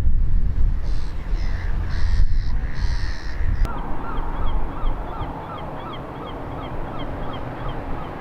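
A bird calling in a quick repeated series of short pitched notes, about three a second, starting about halfway in, over low wind rumble on the microphone.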